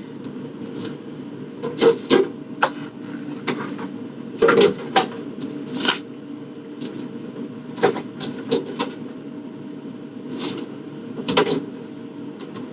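Items and containers knocking and clattering as they are handled and moved around while a fridge is cleared out, about a dozen separate irregular knocks over a steady low background hum.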